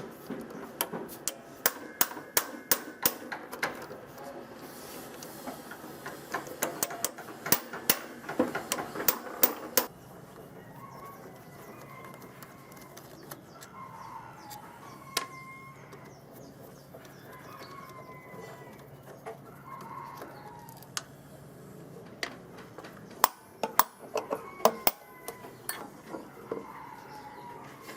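Rapid sharp clicks and light metal knocks, like small parts being handled and tapped. They give way about ten seconds in to a quieter stretch with chickens clucking faintly, and start again with a few knocks near the end.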